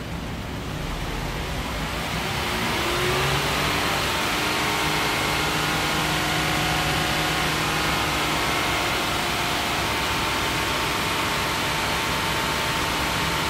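Car engine speeding up over the first three seconds, then held steady at raised revs with an even whine.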